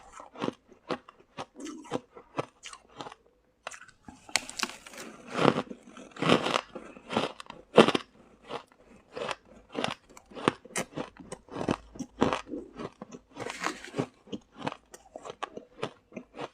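Close-up crunching of shaved ice being chewed, a steady run of sharp crunches, about two to four a second, with a short pause and then a louder stretch a few seconds in.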